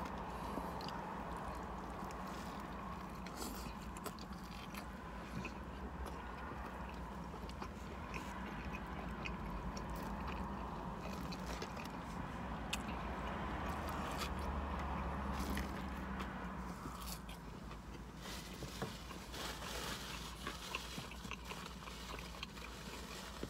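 Close-up eating sounds from a fried chicken sandwich: biting, chewing and soft crunching with scattered mouth clicks and the handling of the bun. A steady low hum runs underneath.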